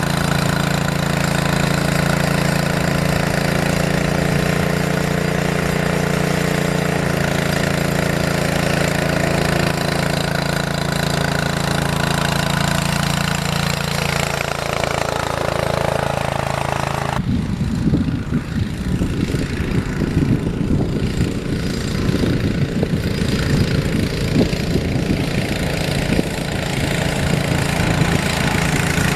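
Engine of a snow-clearing machine running steadily; about 17 seconds in, the sound changes abruptly to a rougher, choppier rumble.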